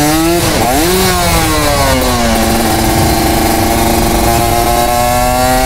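Motorcycle engine revving: its pitch climbs, drops sharply and recovers about half a second in, rises again and falls away, then holds a steady high speed from a little over two seconds in.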